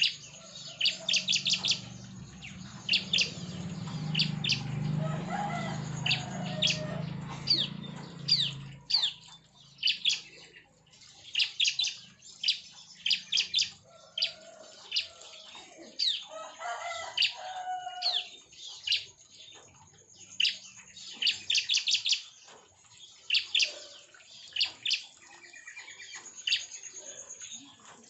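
A colony of bar-winged prinias (ciblek) in an aviary calling, with many quick runs of high, rapidly repeated chirps. A low steady hum sits under the birds for roughly the first third.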